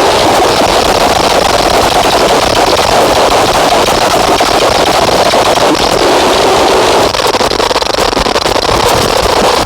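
Heavily distorted electronic noise from a modular synth patch run through fuzz and filter pedals: a loud, dense wall of crackling, stuttering noise with a thicker mid-range drone. About seven seconds in the texture shifts, the mid-range band thinning out.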